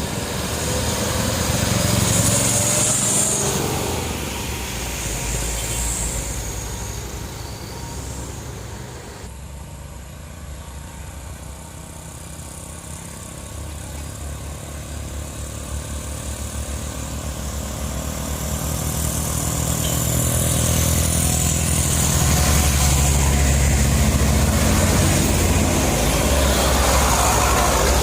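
Heavy diesel trucks labouring up a steep hill with a deep engine drone and tyre noise. The sound swells as one passes, fades, then builds again and stays loud near the end as another truck comes close.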